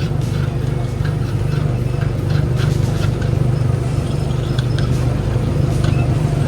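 Small gasoline engine of a Tomorrowland Speedway ride car running steadily while being driven along the track.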